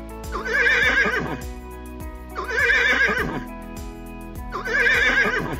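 Horse whinnying three times, about two seconds apart, each a shaky, wavering call lasting just under a second.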